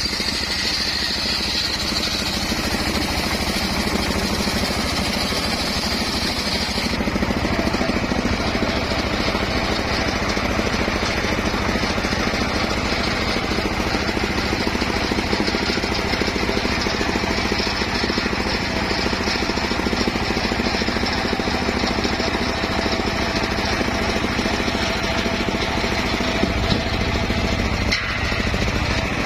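Home-built circular sawmill running with a steady machine drone; a high whine in it drops away about seven seconds in.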